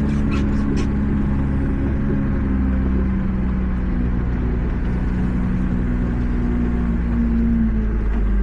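Tractor diesel engine running steadily under load, its pitch wavering slightly, with a quick run of ticks that stops about a second in.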